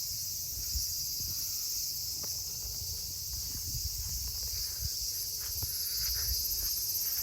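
Steady high-pitched chorus of insects shrilling continuously, with low rumbling and faint irregular thuds underneath.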